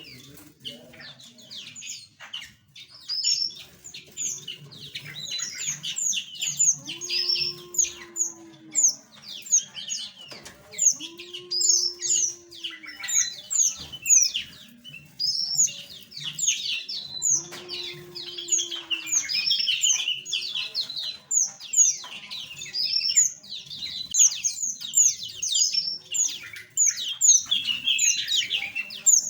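Many small aviary birds chirping and tweeting at once, a dense stream of quick high chirps. Three times a lower call, about a second long, rises and falls beneath them.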